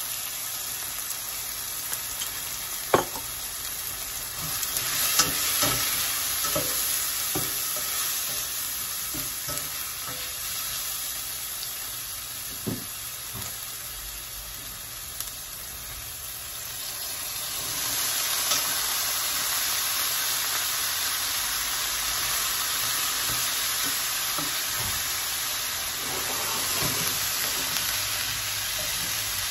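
Tomatoes and spices sizzling in oil in a stainless steel pan while they are stirred, with a spoon knocking and scraping against the pan several times in the first half. About halfway through, the sizzle grows louder.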